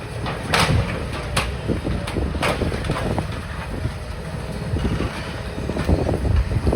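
Demolition excavator's engine running under load while it clears rubble, with repeated clattering and knocking of debris. The loudest crashes come in the first few seconds.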